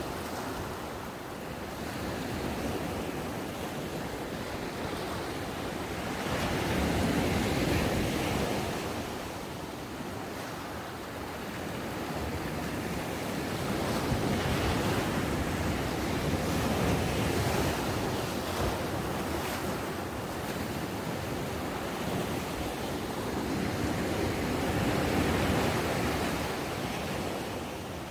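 Ocean waves breaking on a sandy beach, a steady wash of surf that swells and ebbs every few seconds, with some wind noise on the microphone.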